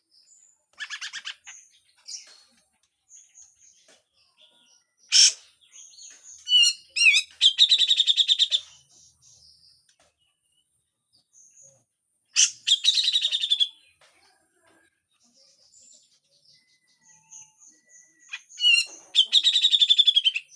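Cucak jenggot (brown-cheeked bulbul) giving harsh rasping calls: three bursts of a fast chattering rattle, each a little over a second long, with short sharp notes and chirps between them.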